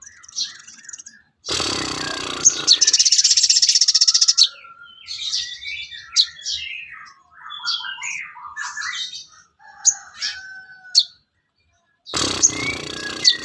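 Sogon bird song: quick chirps and short whistled phrases. A harsh, rattling burst starts about one and a half seconds in and lasts about three seconds, and another begins near the end.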